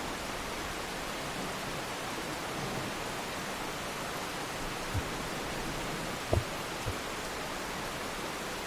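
Steady rushing noise of water, with three short low thumps a little past halfway.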